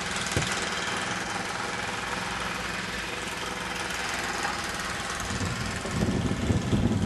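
Small gasoline snowblower engine running steadily while clearing deep snow, with a heavier low rumble building near the end.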